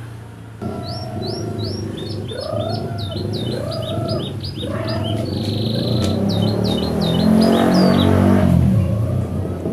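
Canary singing fast, repeated rising chirps, about three a second, in phrases learned from the bar-winged prinia (ciblek), with a few lower rising notes beneath. A steady low hum runs under the song, and a louder rumbling noise swells near the end.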